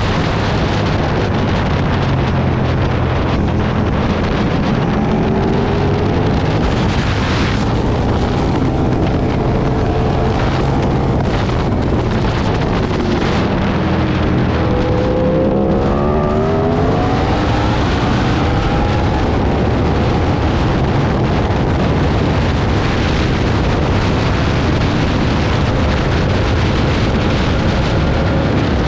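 Aprilia Tuono V2 1000's V-twin engine pulling hard on a race track, with heavy wind rush over the microphone. A little past halfway the engine pitch drops as the bike slows for a corner, then climbs again as it accelerates out.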